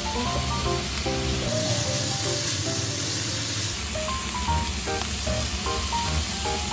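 Pork belly, cabbage and onion sizzling steadily in a frying pan, mixed with background music of short melodic notes.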